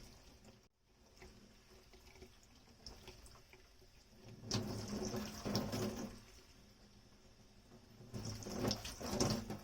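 Kitchen tap water running and splashing onto dishes in the sink, in two short surges: one about halfway through and one near the end, with quieter water and handling sounds between.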